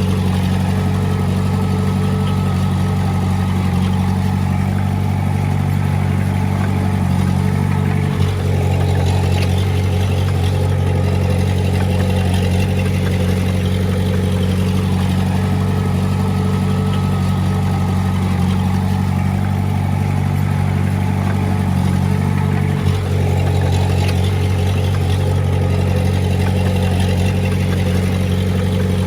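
Komatsu D20A crawler bulldozer's diesel engine running steadily under work, with two brief dips in level about 8 and 23 seconds in.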